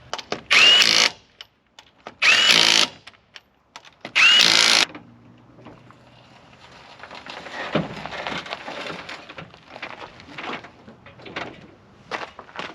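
A power impact wrench runs in three short bursts about two seconds apart, each opening with a rising whine, as it tightens the lug nuts on the new wheels. Quieter handling and rustling noises with scattered clicks follow.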